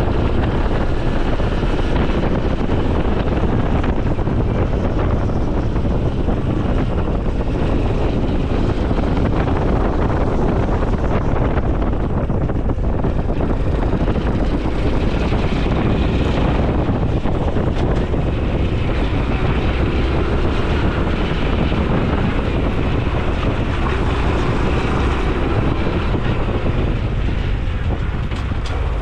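Honda CT125 Hunter Cub's single-cylinder four-stroke engine running under way, with wind rushing over the microphone. The sound is steady and eases off a little near the end.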